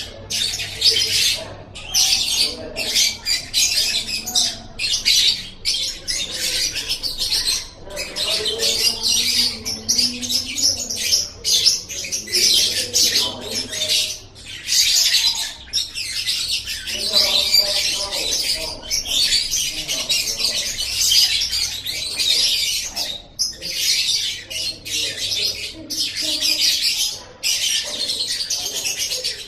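Lovebird singing a rapid, high-pitched chattering song that runs on almost without pause, broken only by short gaps.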